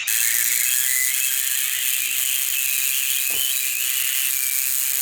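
A steady high hiss starts abruptly and holds level, with faint wavering squeals running through it, as an engine strains against a brake van.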